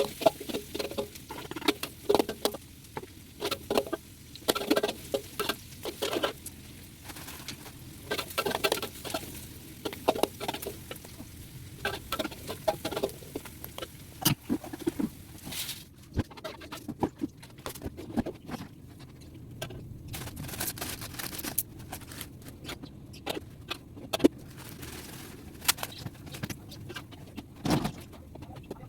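Irregular taps, clinks and short scrapes of kitchen utensils and cookware being handled, busier in the first half and sparser after the middle.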